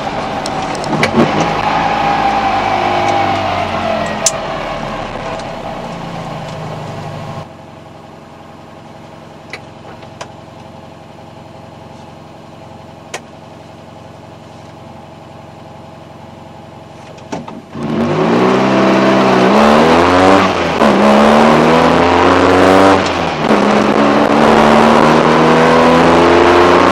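Fiat 126's air-cooled two-cylinder engine heard from inside the cabin. It winds down with falling pitch, then after an abrupt change it idles steadily. About eighteen seconds in it revs hard for a launch, climbing through the gears with repeated rising pitch and a brief drop at each shift.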